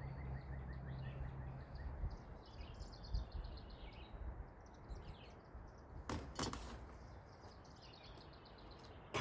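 Small birds chirping over low background noise, with two short clicks about six seconds in.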